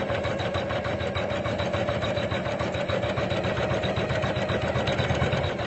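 Usha Janome Memory Craft computerized embroidery machine stitching out a design at speed: a fast, even run of needle strokes over a steady motor hum.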